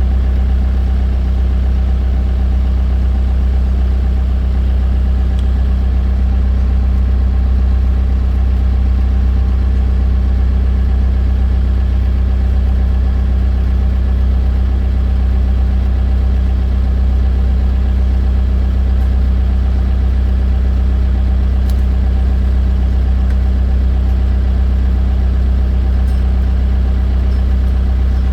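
Diesel engine of heavy machinery running steadily at a constant speed, a deep even hum with no revving or change.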